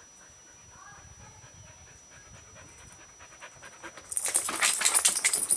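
A dog panting fast and close by. The panting starts suddenly and loud about four seconds in, after a few seconds of only faint sounds.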